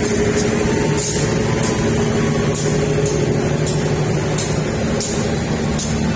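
A train running at the station: a loud, steady engine drone with short, sharp hisses repeating about every half second to a second.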